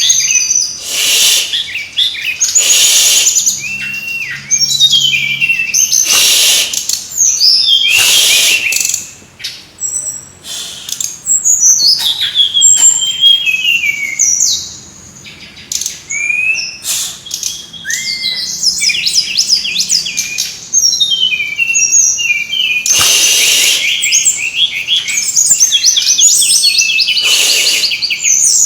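Brown-chested jungle flycatcher (sikatan rimba dada coklat) singing a busy, rapid run of chirps and trills, used as a lure song to set other birds singing. There are several short noisy bursts along the way and a brief lull about halfway through.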